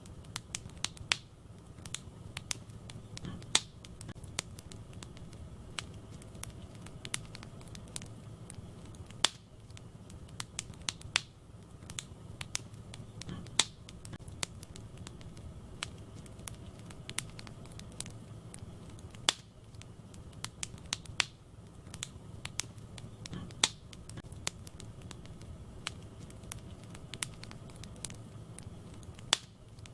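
Wood fire burning in a fireplace: irregular sharp pops and crackles of burning logs over a low steady rumble of the flames.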